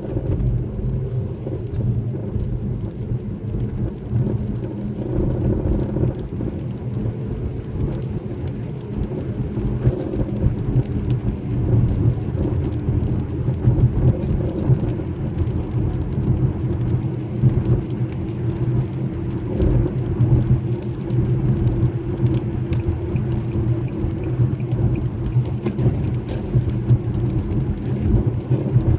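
Infiniti G37 driving at road speed: a steady low drone and rumble of tyres and road.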